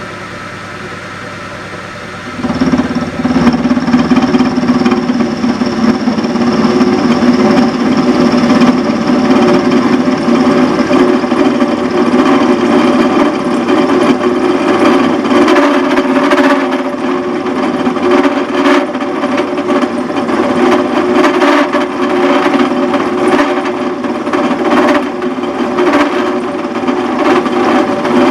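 Pillar drill running with an 8 mm milling cutter in its chuck. About two and a half seconds in, the cutter is fed down into the oiled silver steel shaft and the sound turns much louder: a steady motor drone with scraping and irregular chattering clicks as it plunge-cuts a keyway in the steel.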